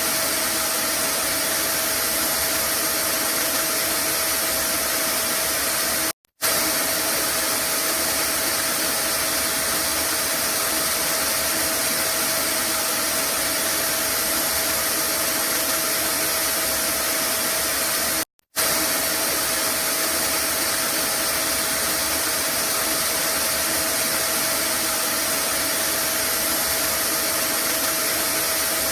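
Vacuum cleaner running steadily: an even whooshing hiss with a steady hum tone through it. The sound drops out for a split second twice, about 6 and 18 seconds in.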